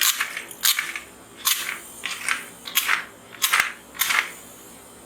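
About eight short, crisp rustling clicks in quick irregular succession, plastic being handled, then stopping near the end.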